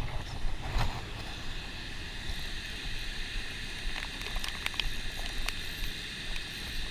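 Wind buffeting the microphone over a steady outdoor hiss, with a few faint clicks.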